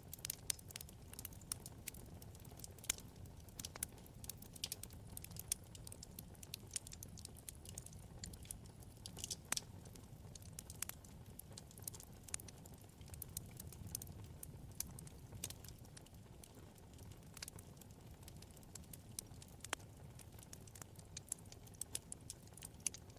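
Wood fire burning in a fireplace: irregular, sharp crackles and pops of burning logs over a low, steady rumble of flames.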